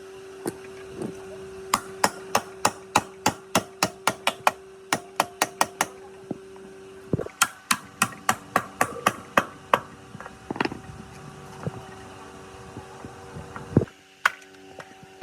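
Hammer tapping repeatedly, about four strikes a second in three quick runs, then a few scattered knocks, over a steady hum.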